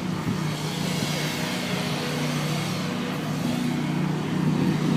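An engine running steadily with a low, even drone, over general outdoor background noise.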